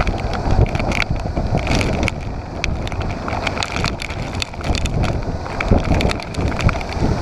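Motorcycle on the move over rough ground: engine rumble and wind buffeting the microphone, with frequent knocks and rattles from the bumpy track.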